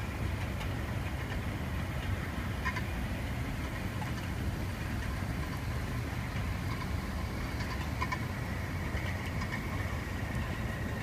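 Small motorized rail cars running along the track: a steady low rumble with a few scattered clicks.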